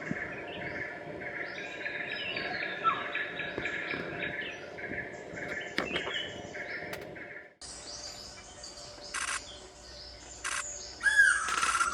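Forest birds calling and singing, with many short repeated calls layered over one another. About 7.5 seconds in, the sound cuts abruptly to a quieter passage with a few brief calls. Near the end a sustained whistled tone begins.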